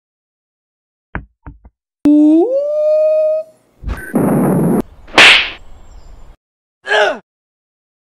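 Cartoon fight sound effects: a few faint clicks, then a held tone that rises in pitch, a swish, and a loud whack about five seconds in, the knockout blow. A short tone falling in pitch follows near the end.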